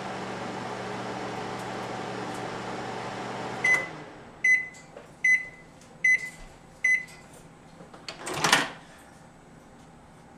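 Microwave oven running with a steady hum that stops about a third of the way in, followed by five short, high beeps about a second apart signalling the end of the cycle. Near the end there is a loud rattling clunk as the door is opened.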